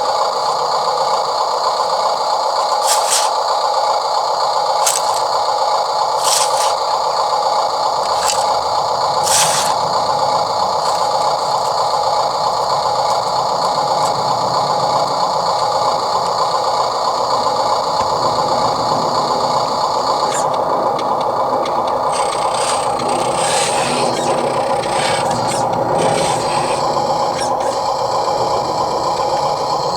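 Electric drive motor and plastic gearbox of a Huina 1582 RC dump truck running, a steady whine with a scraping, grinding edge. Sharp clicks and knocks come several times in the first ten seconds and again in a cluster about two-thirds of the way through.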